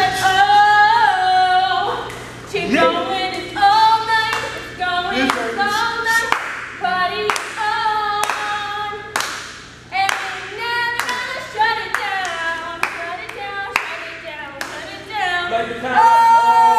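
Voices singing in sliding notes, with sharp hand claps about twice a second keeping the beat.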